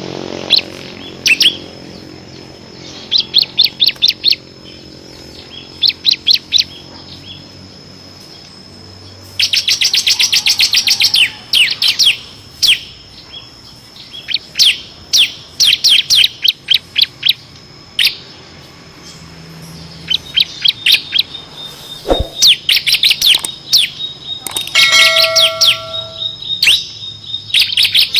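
Bar-winged prinia (ciblek kristal) singing in bursts of rapid, sharp, high chip notes. About ten seconds in comes a long fast machine-gun trill, the 'ngebren' song that keepers prize.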